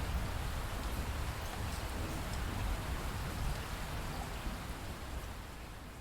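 Steady rain falling, an even hiss of drops with a low rumble underneath, easing off slightly near the end.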